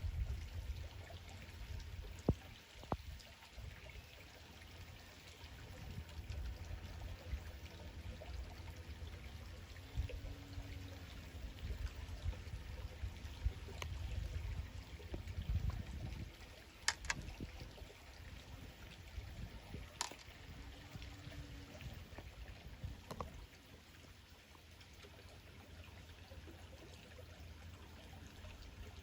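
Small stream trickling and flowing steadily, with uneven low rumbling and a few sharp clicks.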